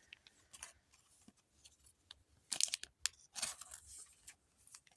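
Foil Pokémon booster pack wrapper crinkling and being torn open by hand, in short scattered rustles and crackles.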